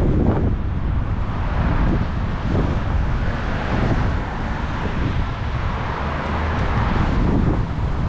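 Wind rushing and buffeting over the microphone of a moving bicycle, mixed with the steady sound of road traffic.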